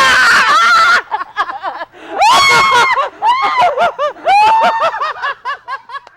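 People laughing hard, in loud bursts of rapid 'ha-ha' laughter with high shrieking cries, trailing off near the end.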